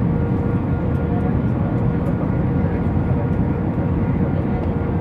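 Steady cabin noise of an Airbus A319 on approach: a constant rush of engines and airflow, with a faint steady hum.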